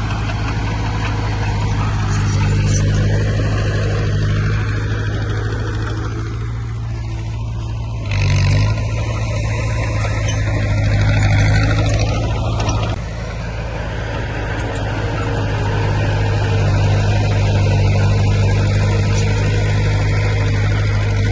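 Heavy diesel earthmoving machinery running steadily with a deep engine hum. About eight seconds in, a louder rushing noise rises over it for roughly five seconds and then cuts off.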